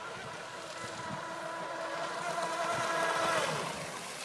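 Radio-controlled model boat's motor whining as it runs on the water. It grows louder, then falls in pitch and fades near the end.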